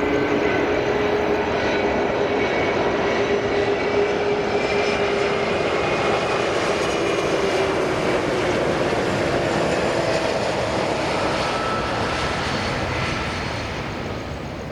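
Jet airliner passing close by, a loud engine roar with whining tones that slowly fall in pitch, fading near the end.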